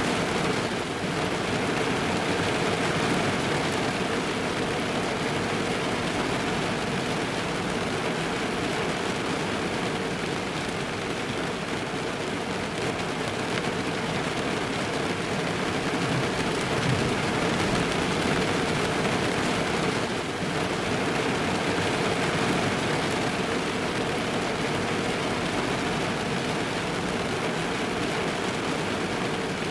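Steady rain falling on a car, heard from inside the cabin as an even patter on the roof and glass.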